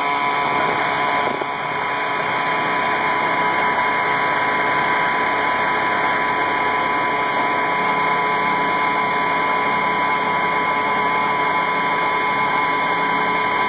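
AM General M35A2C truck's turbocharged multifuel inline-six diesel idling steadily just after a cold start.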